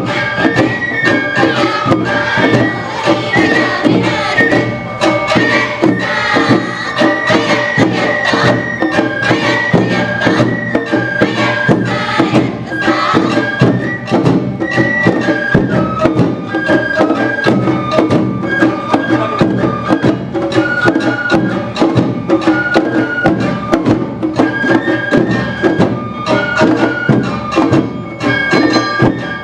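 Awa Odori festival music (hayashi): a high bamboo flute plays a stepping melody over a steady beat of drums and other percussion.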